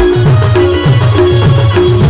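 Octopad drum-machine patch playing an Adivasi timli dance rhythm: low electronic drum hits that drop in pitch, about four a second, over a short repeated held note, with shaker-like high hits.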